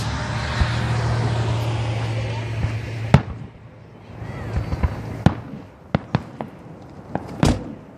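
Aerial display fireworks bursting: a series of sharp, separate bangs at irregular spacing, the loudest about three seconds in and the rest through the second half. Before the first bang there is a steady rumbling wash with a level hum, which stops abruptly at that first bang.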